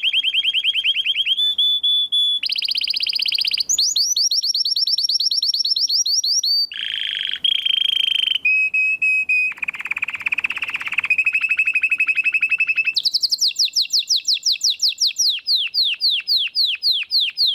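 Canary singing a continuous song built of trills. Each trill is a fast run of one repeated note held for a second or two, then switching to another. Near the end it changes to a slower series of falling notes, about three or four a second.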